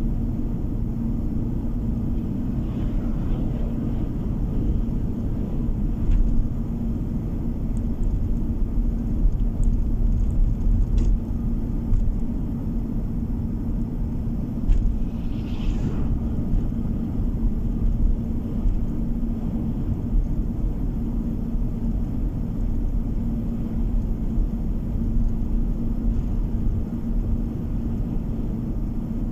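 Steady low road and engine rumble of a moving car heard from inside the cabin, with a constant hum running through it. A few faint ticks and one short higher-pitched sound come about halfway through.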